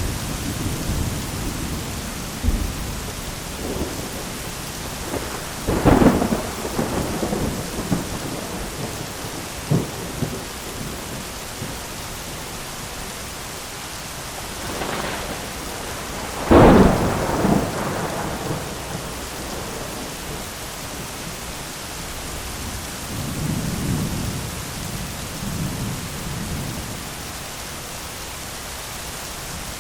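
Heavy rain falling steadily on an umbrella during a thunderstorm, with two loud thunder cracks about six and sixteen seconds in, each trailing into rumble. Fainter rumbles of thunder come later.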